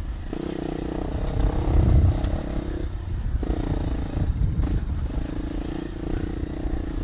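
Dual-sport motorcycle engine running at low, fairly steady speed while riding a trail, easing off briefly a few times, over a low rumble.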